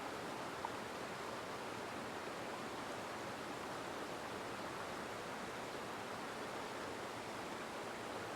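Steady, even hiss of background noise, with one faint click about two-thirds of a second in.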